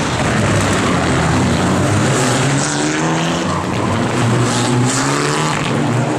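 Rally car engine running at high revs, its pitch climbing twice as the driver accelerates.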